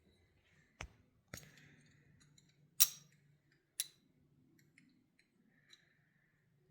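A few sharp clicks and clinks of small valve-body parts and tools being handled, the loudest about three seconds in, with fainter ticks after it.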